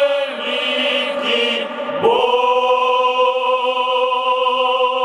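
Men's sailors' choir singing a slow phrase in Russian, with a long chord held from about two seconds in.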